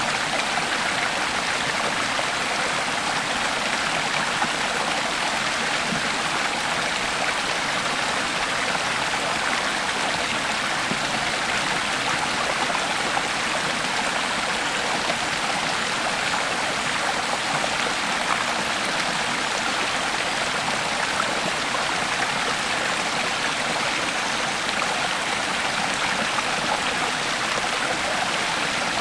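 A creek flowing steadily over rocks: a continuous, even rushing and splashing of water.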